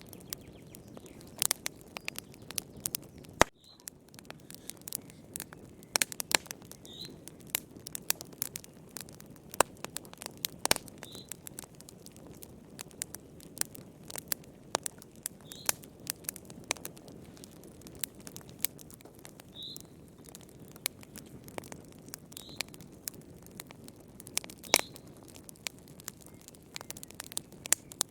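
Wood fire crackling in a fireplace: irregular sharp pops and snaps, some much louder than others, over a steady low hiss of burning.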